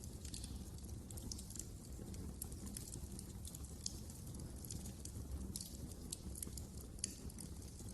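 Fireplace fire crackling: many irregular sharp pops and snaps over a steady low rumble of the flames, with a couple of louder pops about four and seven seconds in.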